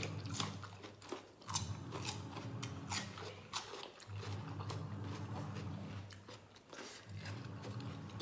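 Raw cucumber slices being bitten and chewed, with sharp wet crunches about every half second at first and less often later. A low hum cuts in and out underneath.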